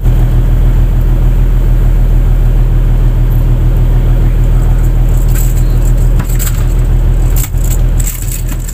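A fishing boat's engine running steadily with a loud, low drone. From about five seconds in, a string of sharp clicks and knocks rises over it.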